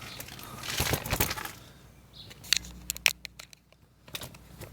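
Tools and brake parts being picked up and handled: scattered light clicks and knocks with some rustling, as the mechanic gets ready to clean the brake hardware.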